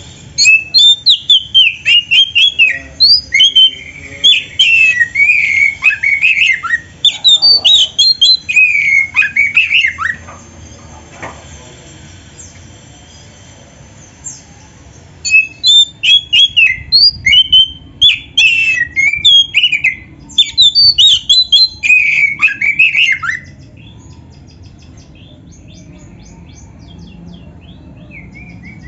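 Oriental magpie-robin (kacer) singing in full, varied song: loud, rapid runs of whistled, sliding notes packed with mimicked fill-in phrases. It sings in two long bouts with a pause of about five seconds between them.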